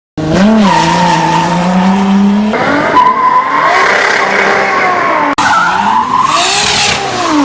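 Toyota 86 drift car with a swapped, turbocharged Toyota 2JZ straight-six engine making about 1000 hp, running hard with tyre squeal. The engine pitch holds, jumps and sweeps up and down, with sudden changes about two and a half and five and a half seconds in, like cuts between passes.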